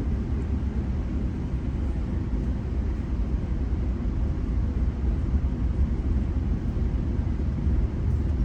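Steady low rumble of a GO Transit commuter train running between stations, heard from inside a coach.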